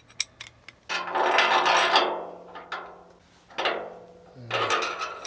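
Metal hardware being handled: a few sharp clicks, then scraping and rattling about a second in and again near the end, with clinks between, as a threaded bar, nut, socket and washers are picked up and put together.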